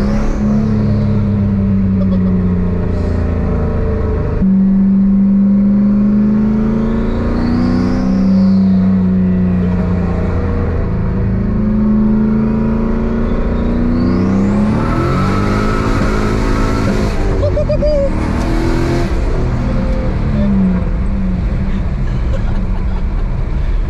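Turbocharged 1998 Chevy Camaro SS's V8 accelerating hard through the gears, its pitch climbing and dropping back at each shift. The 78 mm turbo whistles as it spools, and a loud rushing hiss comes in for a few seconds about two thirds of the way through.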